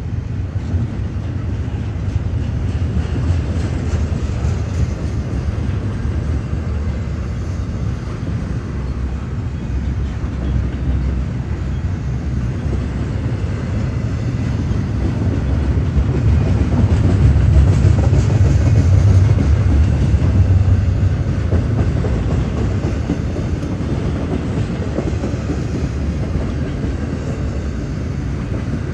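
Freight train rolling past: a steady, heavy low rumble of wheels on rail that swells louder about two-thirds of the way through, then eases.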